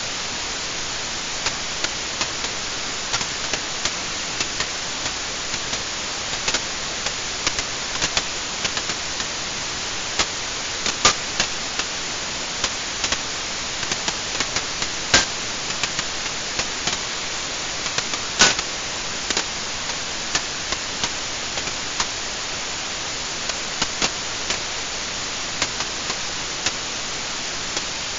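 Wood fire burning in a fireplace: a steady hiss with irregular crackles and sharp pops, a few of them much louder than the rest.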